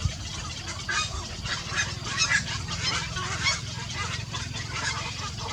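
Birds giving a string of short, harsh calls over a steady low hum.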